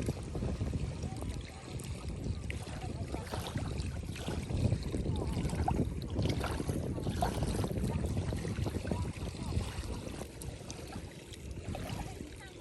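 River water sloshing and splashing as it is stirred, with many scattered small clicks.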